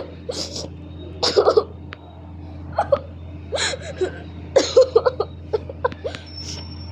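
A woman crying: short, irregular gasping sobs and sniffles between tearful breaths.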